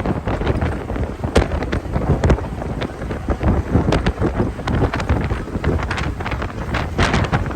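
Strong wind buffeting the microphone: a steady low rumble with frequent crackling pops.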